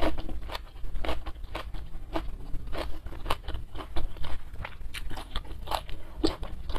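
Close-miked chewing of a mouthful of food, with irregular crunches and clicks of the mouth a few times a second.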